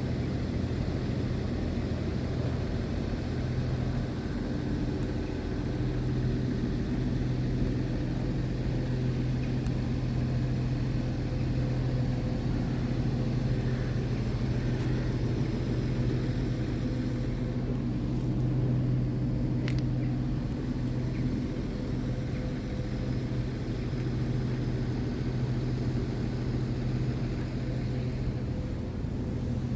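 Scania G tipper truck's diesel engine idling steadily, a constant low rumble.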